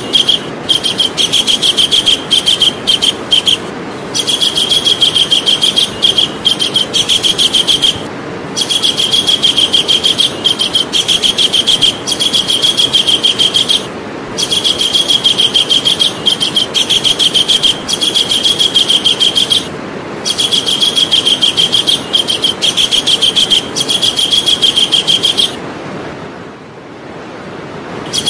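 Javan kingfisher calling: a loud, fast series of high notes, repeated in long runs with short breaks and a longer pause near the end, over a steady background hiss.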